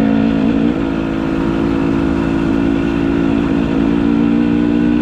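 Enduro dirt bike engine running at a steady speed, its pitch rising briefly about half a second in and then holding level.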